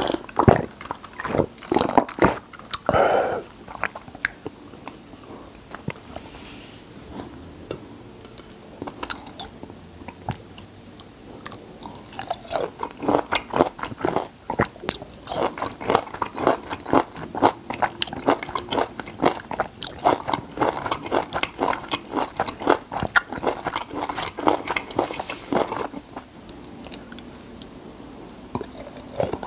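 Close-miked eating sounds of a man chewing raw lime and lemon slices: wet, juicy smacking and crunching. A few separate sounds come early, then a long run of rapid chews in the second half.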